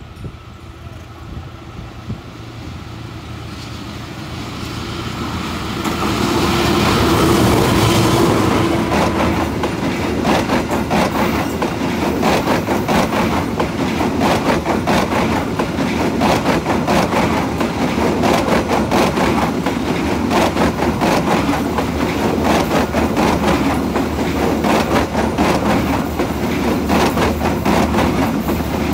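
Train approaching, growing louder over the first six seconds, then passing close by with a fast, continuous clatter of wheels over the rails and a steady low engine hum beneath.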